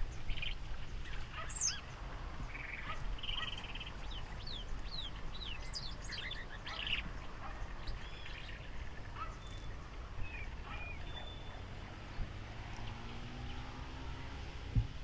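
Several birds chirping and whistling in short calls, thick in the first half and thinning out later, over a steady low rumble. A faint rising hum comes in near the end.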